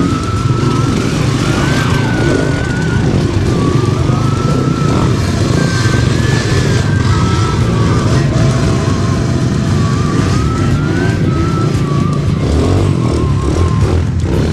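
Steady rush of wind and rolling noise from a mountain bike being ridden, picked up by a helmet camera, with a thin whistle-like tone that wavers up and down.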